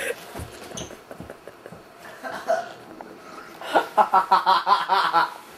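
A person laughing hard in a quick run of ha-ha bursts, about eight a second, starting past the middle and lasting about a second and a half.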